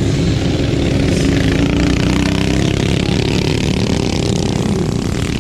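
Loud motorcycle-type engine running steadily, its pitch rising a little in the first couple of seconds.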